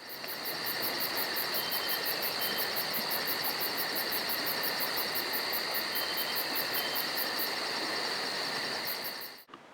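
Insects chirping in an even rhythm of about four or five chirps a second over a constant hiss. The chirping stops near the end, and then the whole sound cuts off abruptly.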